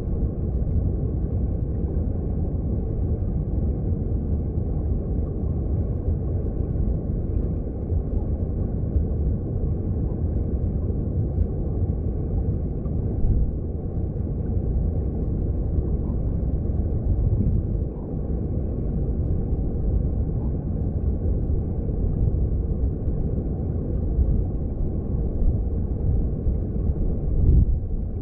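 Underwater sound of a mountain stream: a steady, deep rumble of flowing water heard under the surface, with a few soft knocks, the clearest near the end.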